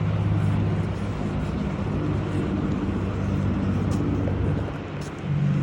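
An engine running steadily at idle, with a short dip in level about five seconds in.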